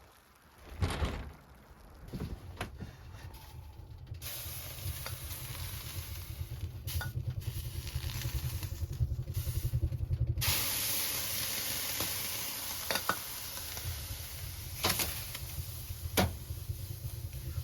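Steady sizzling hiss that starts about four seconds in and grows louder and brighter about ten seconds in, over a low rumble, with a few sharp clicks scattered through.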